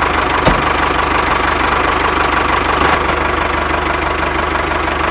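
Engine idling steadily with a fast, even low chugging; a single click about half a second in.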